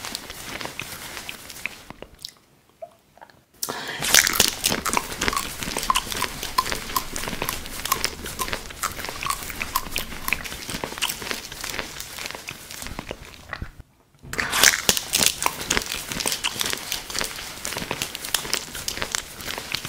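Close-up crunchy biting and chewing: two bites, about four seconds in and again about fourteen seconds in, each followed by a run of crackly crunching chews.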